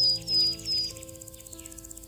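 Background music with sustained notes, over a bird's repeated high chirps, about two to three a second, which stop about a second in.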